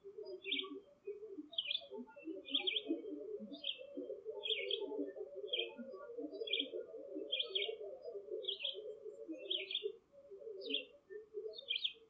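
A bird chirping over and over, short high chirps about three every two seconds, over a busy jumble of short, lower-pitched sounds that is thickest in the middle and thins out near the end.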